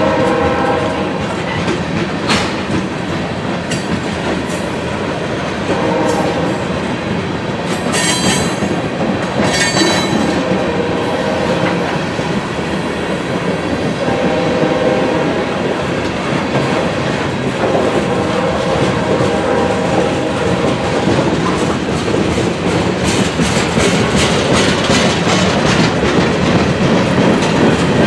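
CSX freight train M575 rolling past, its steel wheels clacking over rail joints in a steady rumble, with brief pitched tones coming and going now and then.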